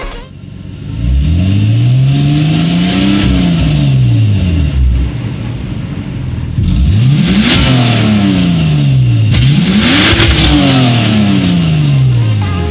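Turbocharged car engine being revved three times, its pitch climbing and falling: one slow rise and fall, then two quicker ones.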